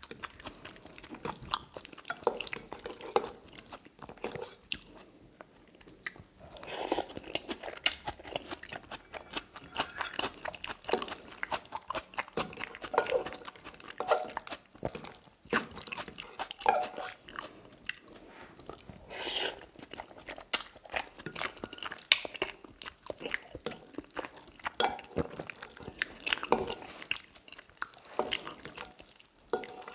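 Close-up mouth sounds of someone chewing tagliatelle in a creamy salmon sauce: a steady run of wet clicks and smacks, with louder bouts of chewing every few seconds.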